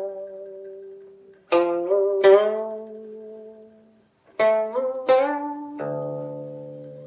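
Guqin played solo: about five plucked notes, in pairs, each ringing on and fading slowly. After some plucks the pitch slides a little as the left hand glides along the string.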